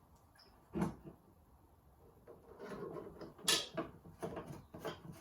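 Hand tools and metal parts being handled: a knock about a second in, then a run of clicks and clatters with one sharp click in the middle.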